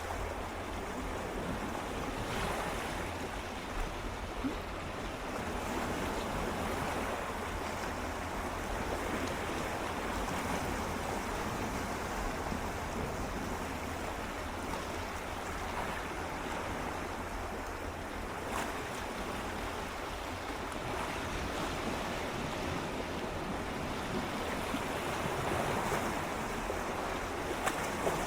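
Gentle sea waves lapping and swirling against shoreline rocks, a steady wash of water with small splashes and slight swells in level, under a little wind noise on the microphone.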